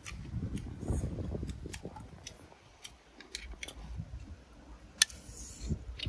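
A person chewing close to the microphone, in irregular bursts with small clicks, and one sharp click about five seconds in.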